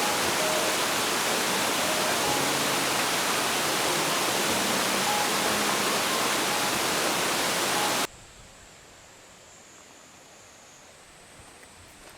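Mountain stream water rushing loudly and steadily close by. It cuts off suddenly about eight seconds in, leaving a much quieter background with a faint high steady tone.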